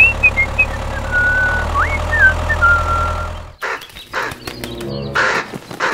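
Bird calls: short whistled notes and quick rising calls over a low steady engine hum, then, after a cut about three and a half seconds in, a run of harsh, raspy calls.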